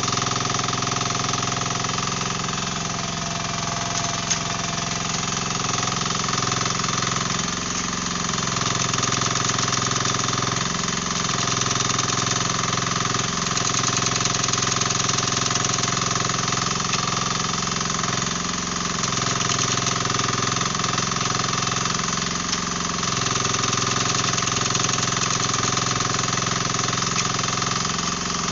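Dasen 15 mini excavator's engine running steadily at working revs. Its note dips and recovers every few seconds as the hydraulics take load while it breaks up hard ground.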